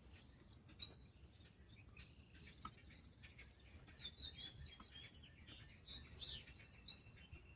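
Near silence with faint outdoor birdsong: a run of short, high chirps in the middle stretch, and a few faint ticks.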